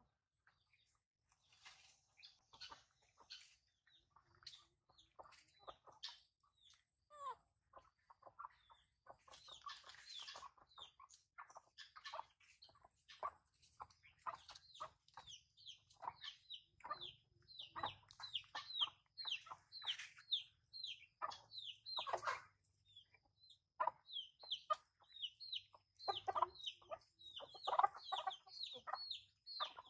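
Birds calling: fast runs of short, high, falling peeps, several a second, with lower clucking calls mixed in, busiest in the second half.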